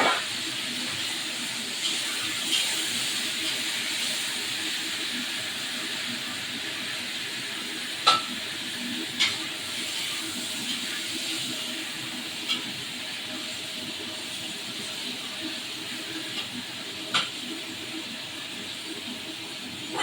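Shrimp frying in hot oil in a pan, a steady sizzle, with a few sharp clinks against the pan, the loudest about eight seconds in.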